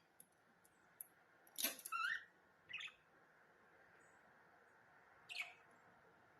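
Budgerigars chirping in a few short, scratchy calls: a quick cluster about one and a half seconds in, another near three seconds and one more past five seconds, with faint ticks between.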